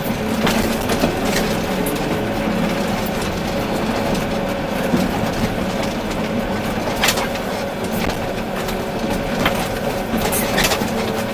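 Volvo EC380D excavator's diesel engine running steadily with a constant hum, with scattered knocks and clanks from the working machine, the sharpest about seven seconds in.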